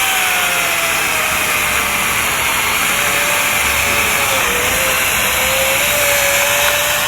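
Makita reciprocating saw running as it cuts into a thick tree branch. The motor whine sags in pitch over the first few seconds and then wavers, as the blade loads up in the wood.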